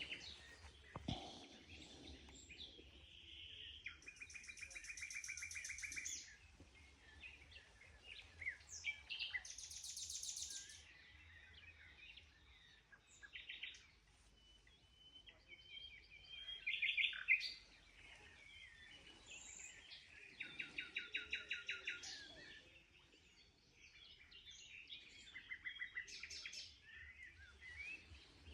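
Small songbirds singing, which the angler calls canaries. Several fast trills of rapidly repeated high notes, each about two seconds long, come every few seconds among scattered short chirps.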